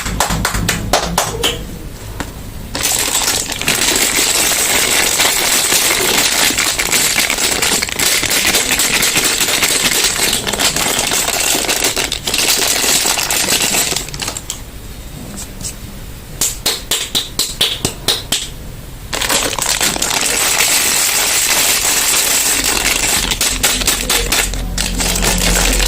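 Soap bars being unwrapped and handled: dense, crisp crackling with quick sharp clicks. It eases off twice, briefly near the start and for a few seconds past the middle, where a short run of separate clicks sounds before the crackling resumes.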